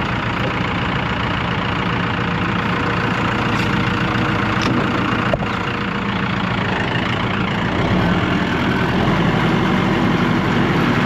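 A vehicle engine running steadily at low revs, getting a little louder from about eight seconds in, with a single short knock about five seconds in.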